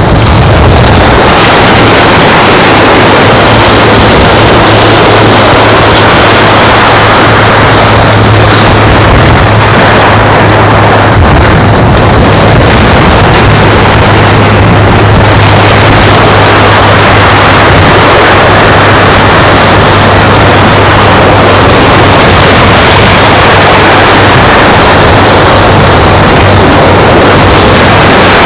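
Loud, steady beach ambience of wind and surf, with a steady low hum running through most of it.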